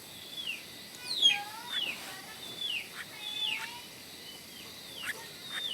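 Birds chirping: short high calls that slide down in pitch, repeated every half second or so.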